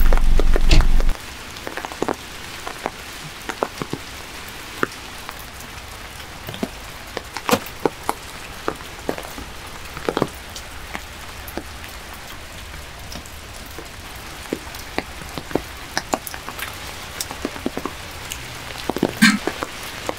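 Rain falling steadily, with single drops ticking sharply and irregularly on a nearby surface over a soft patter. A loud low hum cuts off about a second in, and a slightly heavier knock comes near the end.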